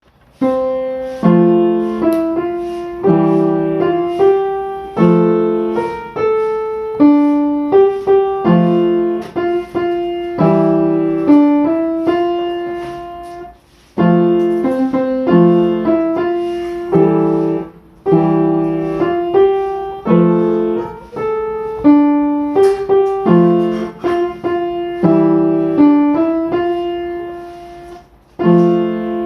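Solo piano music: a slow, gentle melody over low chords, each note struck and then fading.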